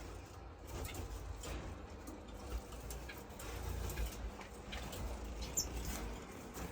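Cage finches in a bird room: scattered faint chirps, wing flutters and small clicks from the cages, with one short high call near the end, over a low steady hum.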